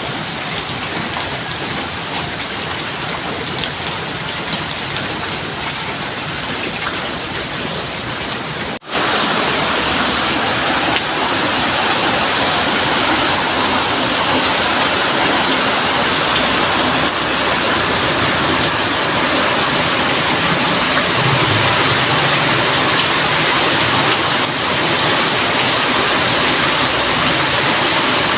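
Heavy rain falling in a steady, dense hiss. About nine seconds in it breaks off for an instant and resumes louder.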